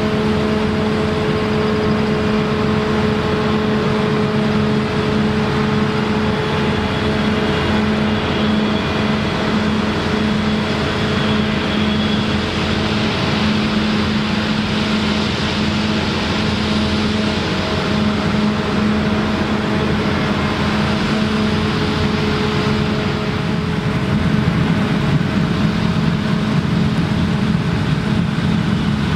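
Claas Lexion combine harvester running steadily under load while cutting rye: an even engine and machinery drone with several held tones. A faint high whine comes in briefly partway through, and it gets a little louder near the end.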